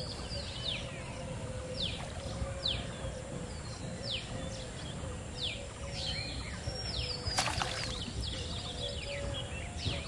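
Birds calling in a series of sharp, high notes that each slide quickly downward, roughly one a second, over a low background rumble. A single sharp click sounds about seven seconds in.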